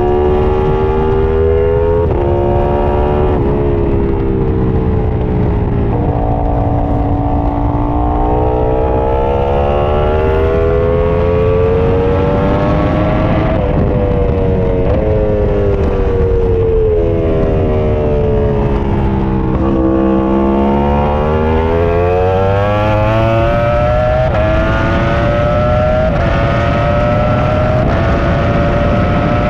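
Onboard sound of a Ducati superbike engine at racing speed, its pitch climbing hard, stepping down briefly at quick gear changes, falling away as it slows and climbing again, over a low rush of wind.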